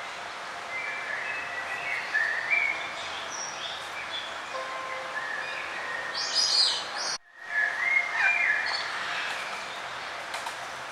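Songbirds chirping and warbling over a steady background hiss, with a brief sharp, higher burst of song just before the sound cuts out for a moment about seven seconds in.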